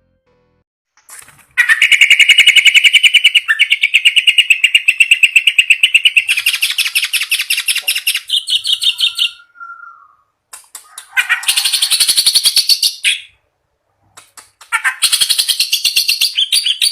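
Kerak basi (reed warbler) singing loudly in long bouts of fast, harsh, chattering phrases of rapidly repeated notes, with short pauses between bouts.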